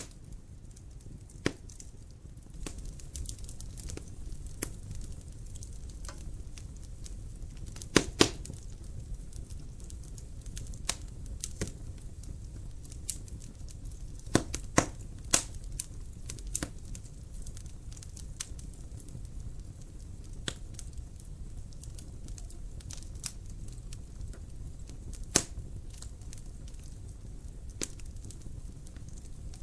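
Fire in a fireplace crackling, with sharp pops scattered at random over a low, steady rumble. The loudest pops come as a pair about eight seconds in, a cluster around fifteen seconds, and a single one near twenty-five seconds.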